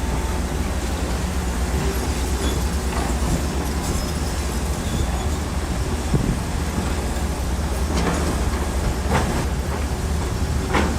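Bulldozer's diesel engine running steadily with a deep rumble, with a few sharp metallic knocks and clanks over the second half.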